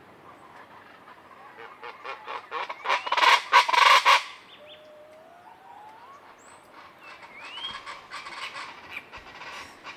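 Common chachalacas calling in a harsh, rapid chorus of repeated notes that builds to its loudest about three to four seconds in and breaks off abruptly. A fainter burst of the same calls follows near the end, with a few thin rising whistles in between.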